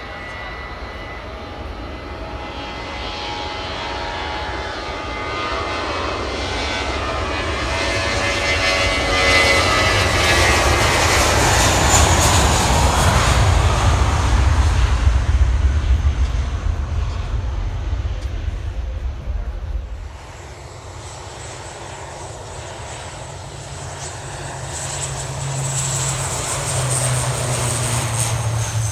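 Airplane engines passing low overhead: the noise builds to a loud peak about halfway through while its whine slides down in pitch. It drops off abruptly about two-thirds in, and another engine noise builds near the end.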